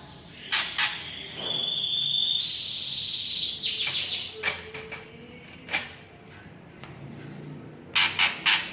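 A cucak ijo (green leafbird) sings a varied song of the kind bred for mimicked phrases. It gives two sharp notes, then a long held whistle lasting about two seconds, then scattered sharp notes and a quick burst of four loud calls near the end.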